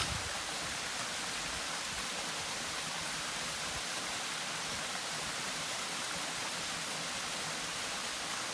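Steady, even rush of water falling in a mountain waterfall.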